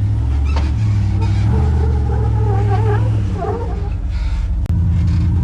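Engine of a 2006 Jeep Wrangler LJ with a swapped-in 5.3 L V8, working under load as the Jeep climbs a rock ledge. Its pitch steps up and down as the throttle changes, with a wavering squeal partway through.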